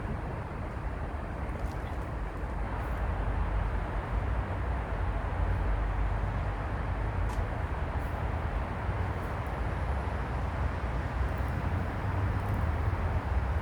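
Wind blowing across the microphone: a steady low rumble with a hiss that rises and falls in strength.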